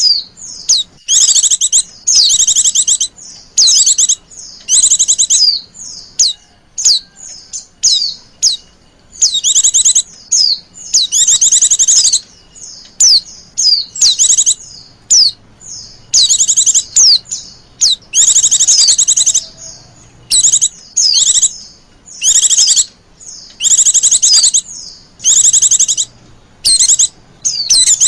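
Female white-eye calling in quick high trills and short chirps that repeat about every second. These coaxing female calls are used as a lure to draw in male white-eyes.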